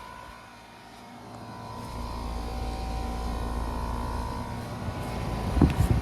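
2022 American Standard Silver Series air conditioner's outdoor condensing unit running: a steady hum with a held tone and a low rumble that builds over the first two seconds and then stays steady. A short loud burst comes near the end.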